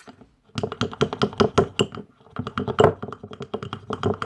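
Spoon stirring a dish-soap-and-salt slime mixture quickly in a bowl, clicking against the bowl about six or seven times a second, with a short pause about two seconds in.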